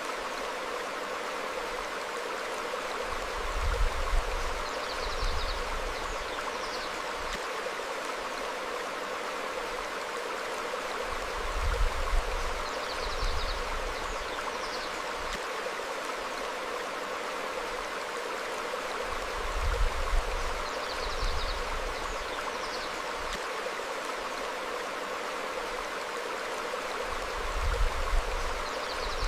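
A stream flowing steadily over rocks, with short bird chirps in pairs about every eight seconds. A low rumble swells and fades about every eight seconds, the loudest thing in the mix.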